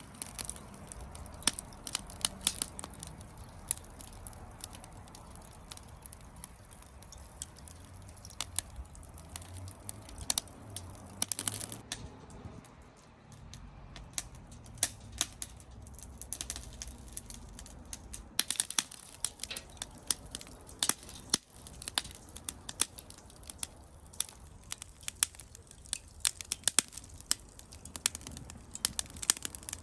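Burning lump charcoal crackling and popping, with many irregular sharp snaps.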